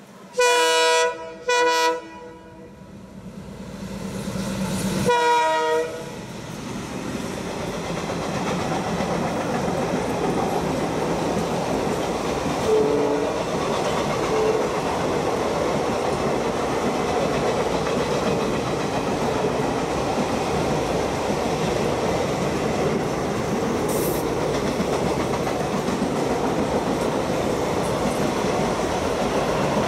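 Locomotive horn sounding two blasts and then a third short one about five seconds in, as a passenger train comes up. The train then runs past with a steady, loud rumble and clatter of coach wheels on the rails.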